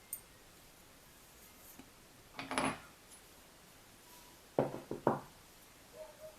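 Engine parts and tools being handled on a workbench: a faint click, a short clatter about two and a half seconds in, and two or three sharp knocks near the end.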